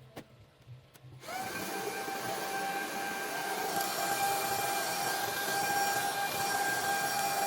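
Shark Rocket cordless stick vacuum switched on about a second in, after a couple of clicks: its motor spins up with a quick rising whine, then runs at a steady high whine over a rush of air.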